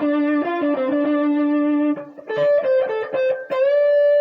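Guitar playing a blues lead lick over the IV chord: minor third, root and flat 7 picked as quick single notes, then a note held and bent slightly upward near the end.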